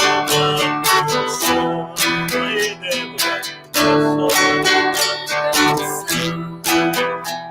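Acoustic guitar music, strummed chords repeated several times, with sustained melody notes over them.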